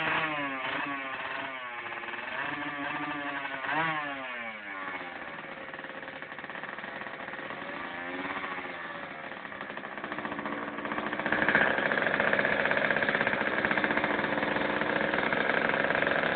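65cc two-stroke motocross bike engine revving up and down several times, then running louder and steadier at a higher pitch from about eleven seconds in.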